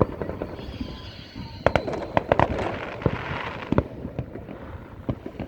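Fireworks going off: many sharp pops and crackles, densest from about a third of the way in to two-thirds through, then scattered bangs.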